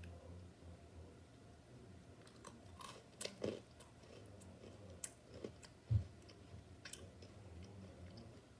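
Someone chewing a crunchy snack: faint scattered crunches and clicks, busiest through the middle, with a soft thump about six seconds in.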